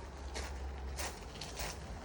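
Footsteps walking at an even pace, about three steps roughly half a second apart, over a steady low rumble.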